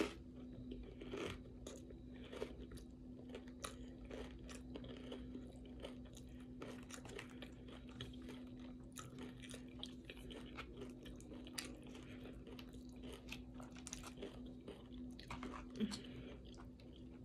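Close, faint chewing of taco salad and tortilla chips, with many small irregular crunches and mouth clicks. A faint steady hum runs underneath.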